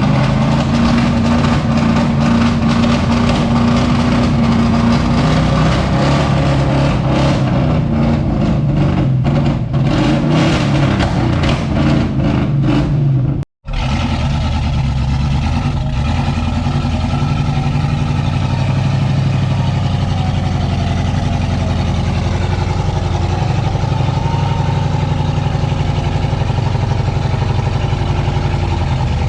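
Competition 4x4 truck's engine running loud under throttle, the revs rising and falling as it works the track. The sound cuts out completely for a moment about halfway through, then the engine carries on with a steadier note that slowly rises and falls.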